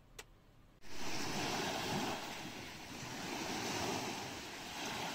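Sea waves washing on the shore with wind on the microphone, starting abruptly about a second in and swelling and easing gently.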